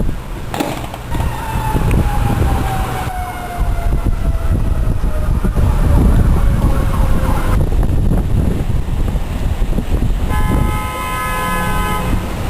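A siren winding down slowly in pitch over several seconds, then a steady horn-like tone for a couple of seconds near the end, over heavy wind buffeting the microphone.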